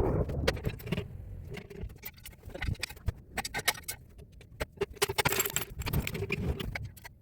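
Irregular metallic clicking and clinking of hand tools, in scattered bursts of short clicks.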